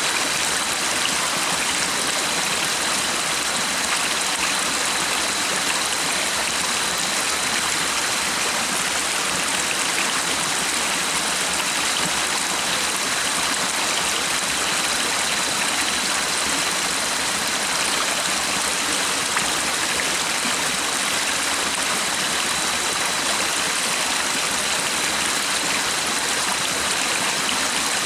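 Stream water rushing and babbling steadily, an even rush of running water with no breaks.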